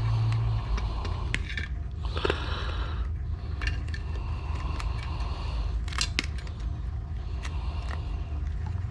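Hands working over the metal parts and circuit boards of an old PC being scrapped, with stretches of scraping and a few sharp clicks, over a low steady hum.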